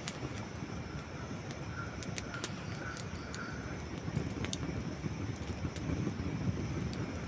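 Dry wood burning in a campfire: scattered sharp pops and snaps, a few a second at most, over a steady low rumble.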